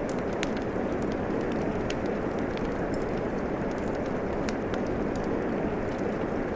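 Steady rain falling, a dense even hiss, mixed with a wood fire in a fireplace crackling in scattered sharp pops.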